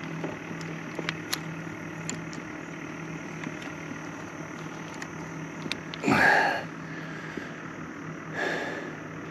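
A boat's outboard engine idling with a steady low hum, scattered faint ticks, and two short louder noises about six and eight and a half seconds in.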